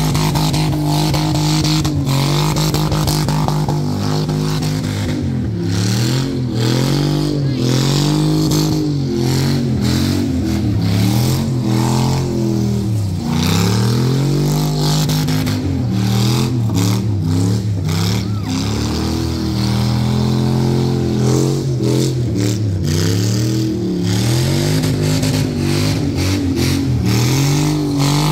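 LS1 V8 in a Toyota KP Starlet revving hard through a burnout, the rear tyres spinning and smoking; the revs are held high and repeatedly dip and climb back every couple of seconds.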